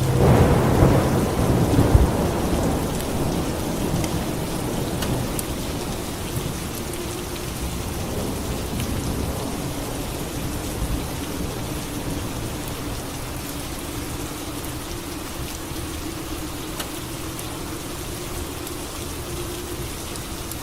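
Steady heavy rain with a clap of thunder right at the start that rumbles and fades away over the next few seconds.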